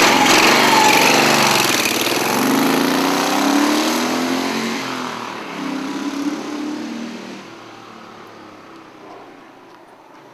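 1973 Moto Guzzi Eldorado's 850 cc V-twin engine running through original Eldorado mufflers. The engine is revved, rising in pitch twice, then becomes much quieter about three-quarters of the way through.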